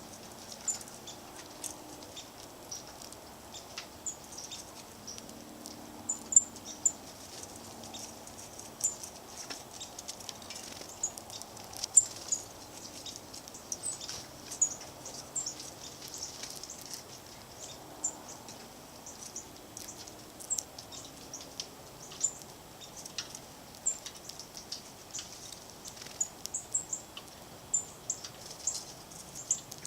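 Small songbirds giving short, high chirps and chips, many scattered at irregular intervals, over a faint steady outdoor background.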